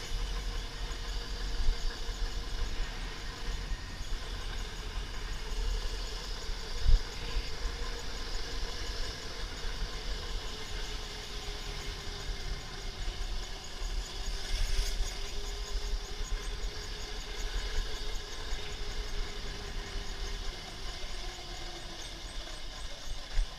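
Razor MX500 electric dirt bike's hub-style electric motor whining steadily while riding, its pitch sagging and rising slowly with speed, over a constant deep rumble. A single sharp knock about seven seconds in.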